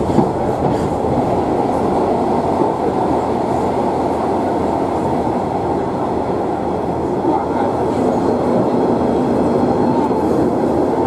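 Class 142 'Pacer' diesel multiple unit running along the line, heard from inside the carriage: a loud, steady running noise, with one brief knock just after the start.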